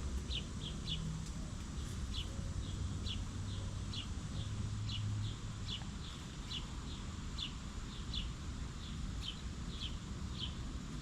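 A bird chirping over and over, short high chirps about two to three a second, over a steady low rumble.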